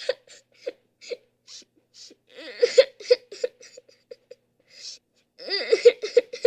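A person crying and sobbing, in two bouts of broken, wavering wails, about two seconds in and again near the end, with short gasping breaths between them.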